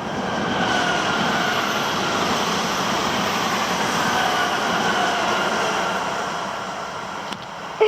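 Regionale Veloce passenger train passing along the track: a steady rush of wheels on rail that swells in the first second and fades near the end, with faint high tones running over it.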